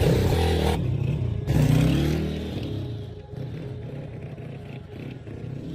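Chopper motorcycle engine revving as it pulls away, surging again with a rising pitch about a second and a half in, then fading as the bike rides off.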